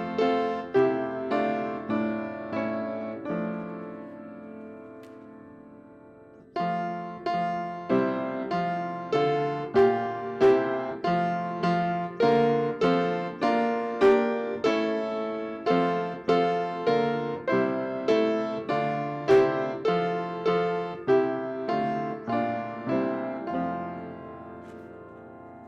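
Piano playing slow chords, each struck and left to ring. The playing dies away about four seconds in, picks up again at about six and a half seconds, and fades near the end.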